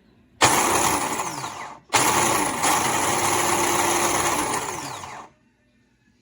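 Black+Decker HC300BC 3-cup food processor motor running in two pulses: a short run of about a second and a half, then after a brief stop a longer run of about three seconds that ends abruptly.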